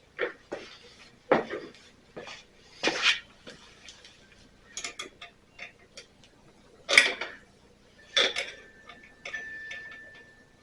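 Metal hand tools clinking and clanking against metal in an irregular run of sharp clicks, the loudest about seven seconds in.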